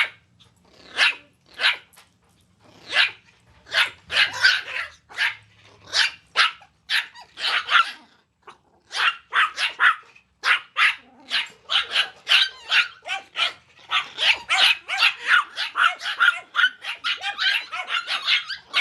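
Yorkshire terrier puppies barking: short high-pitched yaps, a few at a time at first, then several dogs yapping quickly and over one another in the second half.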